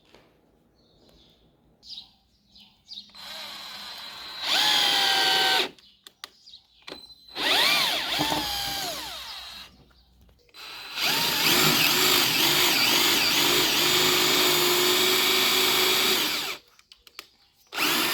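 Parkside impact drill's motor test-run in three bursts, spinning up with the trigger and winding down. Its pitch rises and wavers as the speed is varied, and the last and longest run lasts about five seconds. Light clicks of the switch or handling come between the runs.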